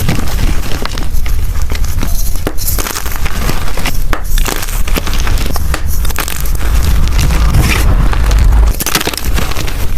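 Blocks of gym chalk being crushed and crumbled by hand: dense crunching and crackling, over a low rumble that drops away about nine seconds in.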